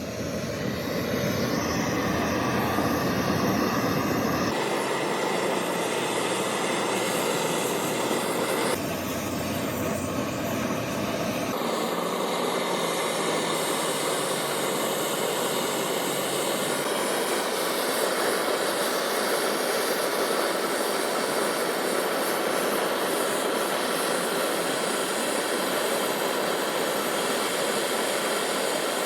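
Steady running noise of metalworking shop machinery, changing character abruptly a few times.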